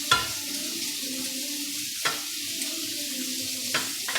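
Prawns and vegetables frying in a hot pan, a steady sizzle, with about four sharp clacks of a utensil against the pan as the food is stirred.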